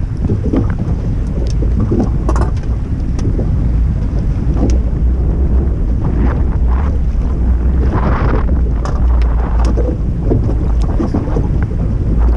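Strong wind buffeting the camera microphone as a steady low rumble, with scattered short knocks and splashes of choppy water against a small fishing boat.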